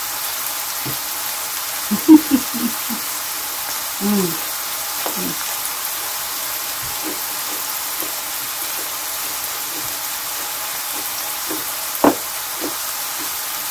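Onion and carrot frying in a pan, a steady sizzle. A few short vocal sounds come about two and four seconds in, and there is a sharp knock near the end.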